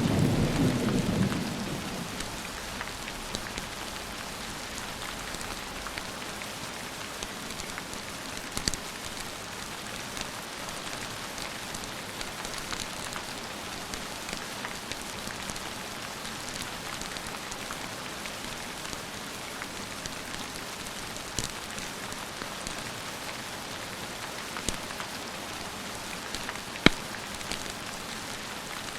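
A thunder rumble dying away over the first couple of seconds, then steady rain. A few sharp clicks stand out now and then, the loudest near the end.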